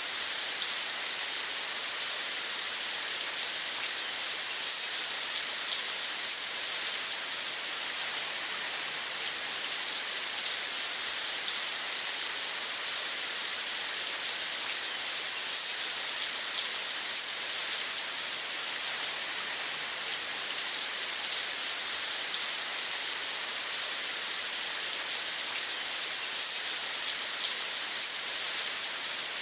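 Steady rain falling, an even hiss with a faint patter of drops that does not change.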